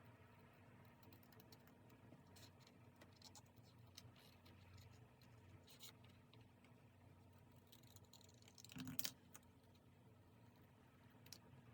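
Faint scattered ticks, taps and scratches of paper and stationery being handled, with one louder brief rustle or scrape about three-quarters of the way through.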